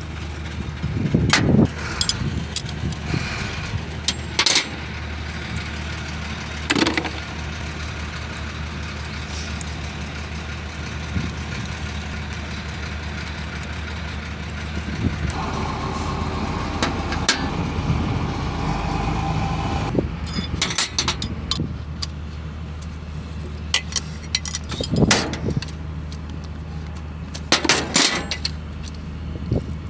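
Six-cylinder diesel engine running steadily, with scattered sharp clicks and knocks over it; a steady higher tone joins for about five seconds midway.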